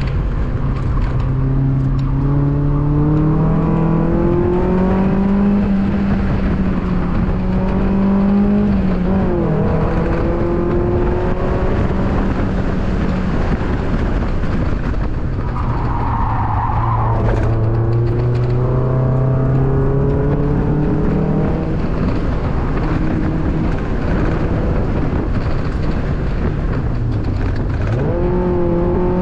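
2002 Mazda Miata's 1.8-litre four-cylinder engine under hard driving on an autocross course, its pitch climbing and falling as the car accelerates and slows, with a quick gear change about nine seconds in and a downshift blip near the end. A brief tyre squeal about halfway through.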